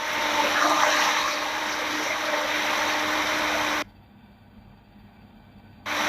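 Steady rushing noise from a boat at sea, water and a running motor with a low steady hum. About four seconds in, the sound drops out suddenly to a muffled near-quiet for about two seconds, a dropout in the live-stream audio, then the rushing noise returns.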